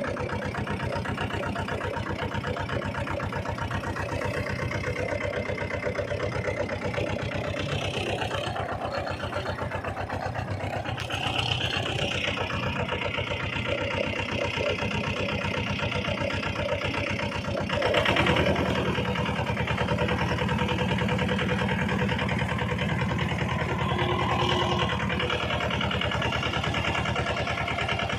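Tractor engine running with a steady, rapid firing beat. About two-thirds of the way through it grows louder and deeper.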